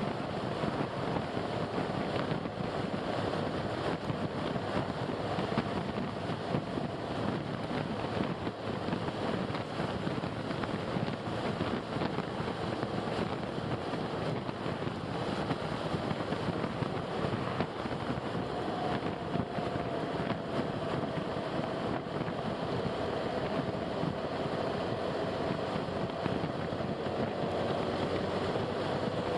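Steady rushing of a mountain stream flowing over rocks. About two-thirds of the way through, a faint hum joins in.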